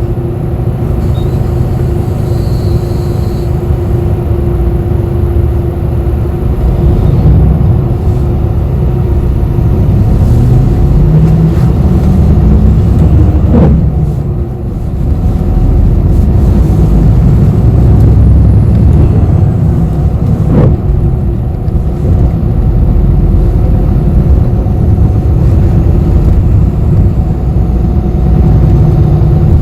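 Inside a moving city bus: steady low engine and road rumble, with the engine's pitch rising as the bus pulls away about a third of the way in. Two brief sharp sounds come through near the middle.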